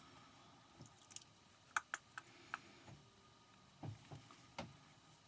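Faint, scattered clicks and light taps of cardstock and tools being handled on a craft table, with a couple of soft knocks near the end.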